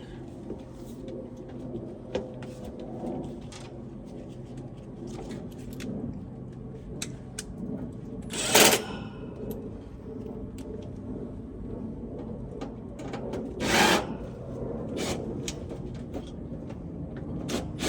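Sheet-metal access cover of a heat pump pool heater being handled and fitted back on: scattered light clicks and knocks, with two louder, noisy bursts about eight and fourteen seconds in, over a steady low hum.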